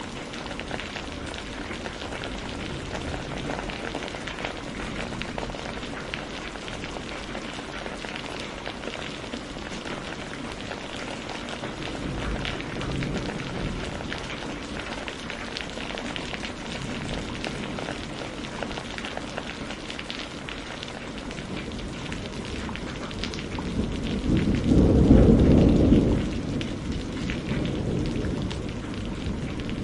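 Wood campfire crackling steadily, with a constant hiss and many small sharp pops. Near the end a louder low rumble swells and fades over about two seconds.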